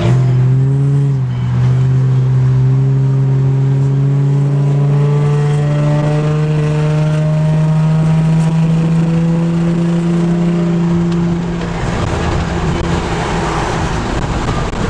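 Car engine running under load, its pitch rising slowly as the car accelerates. About twelve seconds in, the steady tone gives way to a rougher rush of noise.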